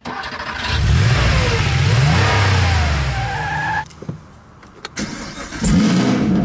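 A car engine revving up and down, cutting off suddenly a little before four seconds in. After a couple of clicks, an engine starts near the end and settles into a steady idle, a warm start.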